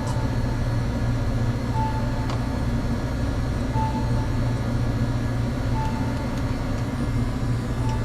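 Steady low mechanical hum, with a short high electronic beep repeating about every two seconds.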